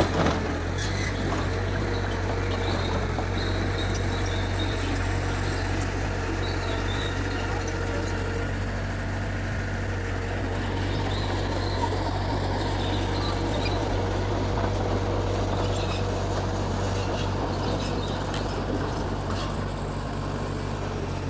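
Mitsubishi bulldozer's diesel engine running steadily, a constant low drone with no change in speed.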